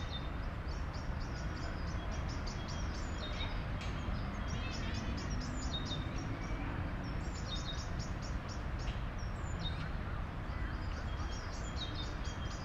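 Many small birds chirping in quick, overlapping high calls over a steady low rumble of city background noise.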